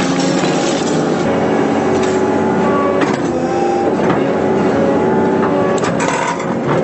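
Excavator running with a hydraulic concrete pulverizer working, a steady engine and hydraulic drone with a few sharp cracks of concrete breaking, one about three seconds in and another near the end.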